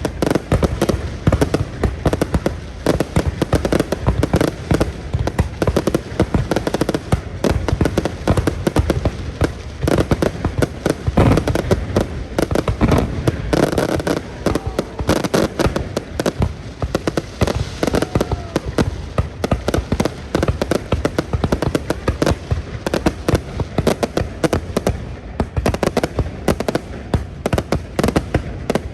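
Fireworks display, with shells bursting one after another in a rapid, unbroken string of bangs and crackles, many a second.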